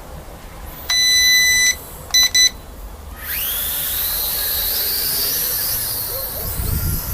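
JJRC H33 toy quadcopter: one long electronic beep and two short beeps, then about three seconds in its small electric motors spin up with a rising whine and run steadily. Low wind rumble on the microphone near the end.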